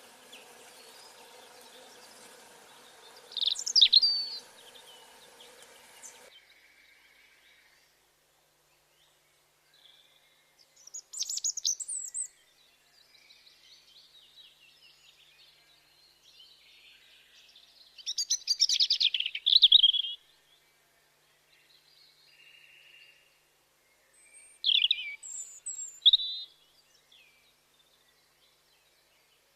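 Songbirds calling in short bursts of high chirps every several seconds, with quiet pauses between. For the first six seconds a steady buzzing hum runs underneath and then cuts off suddenly.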